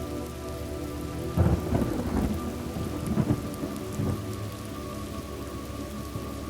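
Steady rain falling, with a thunder crack about a second and a half in that rolls on in a few rumbles for a couple of seconds before dying away. A faint steady drone of low tones lies underneath.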